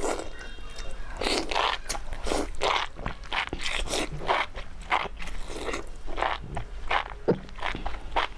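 A person chewing and biting through a mouthful of enoki mushrooms close to the microphone: short, wet, crunchy chewing sounds, about two or three a second.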